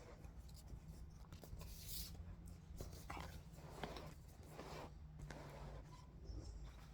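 Faint scratching and rustling of paper being handled and marked during craft work, with a few small ticks, over a steady low hum.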